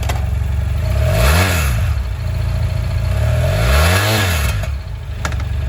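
BMW F800 GS's liquid-cooled, fuel-injected parallel-twin engine idling and revved twice, about a second and a half in and again about four seconds in. Each time the revs rise and fall back to idle.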